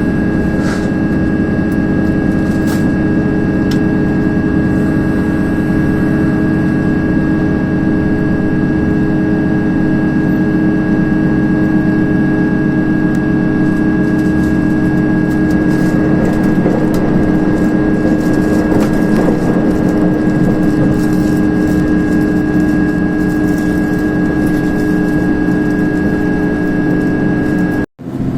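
KiHa 283 series diesel railcar's engine running steadily under power, heard from inside the car as a constant drone with steady whining tones over wheel and rail running noise. It breaks off abruptly for a moment near the end.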